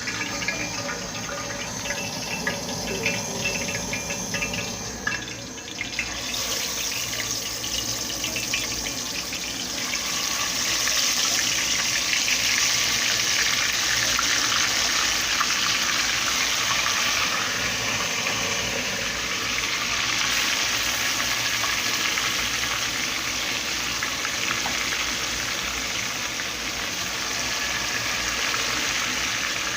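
Chicken frying in hot oil: crackling and spattering at first, then a steady sizzle that grows louder about ten seconds in.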